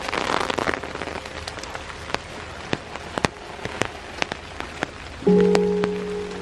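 Raindrops landing on an open umbrella as many separate sharp ticks, with a brief rustle at the start. About five seconds in, a held low chord of background music comes in, louder than the rain.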